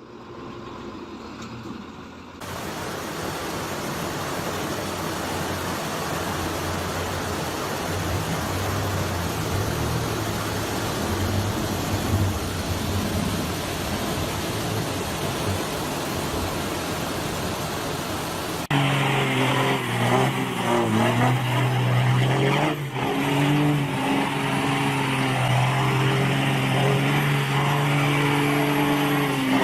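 Motor vehicle engines across several cut-together clips: first a noisy stretch of running and road noise, then, about two-thirds in, an engine running with a steady, clearly pitched hum.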